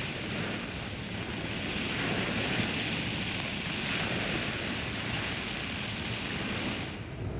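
Steady rushing noise of sea waves and wind, fading out near the end.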